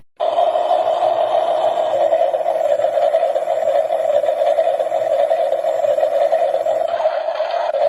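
Washing machine running: a steady, even whirring hum that starts abruptly and holds level throughout.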